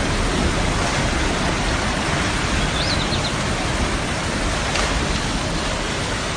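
Steady rush of floodwater after heavy tropical-storm rains, an even, unbroken noise.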